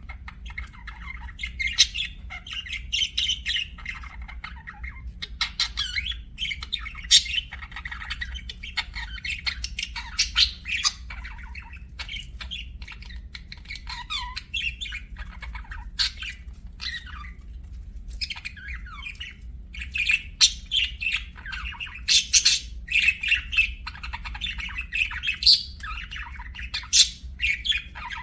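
Budgerigars chattering: a continuous run of short warbling chirps with frequent sharp squawks, over a steady low hum.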